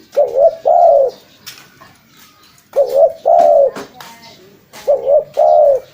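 Spotted dove (tekukur) cooing: three phrases about two seconds apart, each a short double coo followed by a longer drawn-out coo.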